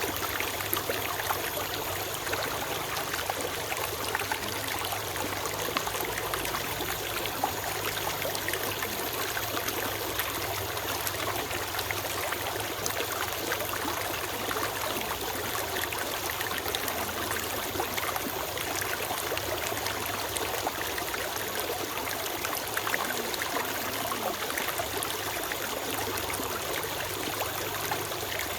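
A forest stream flowing steadily over stones, a continuous rushing with fine trickling and splashing.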